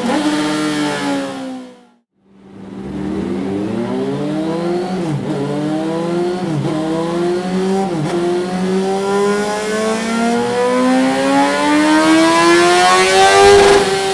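Honda CBR 954RR Fireblade's inline-four engine, breathing through a Dominator aftermarket exhaust, pulling hard up through the gears. Revs climb with three short dips at the gear changes, then one long climb to a peak near the end. A steady low hum runs underneath.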